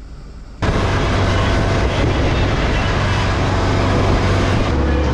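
Boat engine running steadily, cutting in suddenly about half a second in with a constant low hum.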